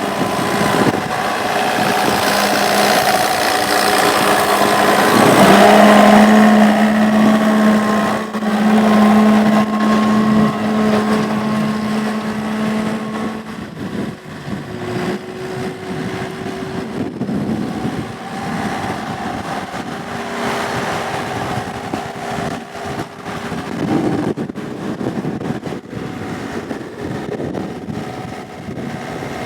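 Komatsu CK30 skid steer's diesel engine running, louder over the first half with a strong steady hum, as if under load, then easing to a lower, steadier running from about halfway on.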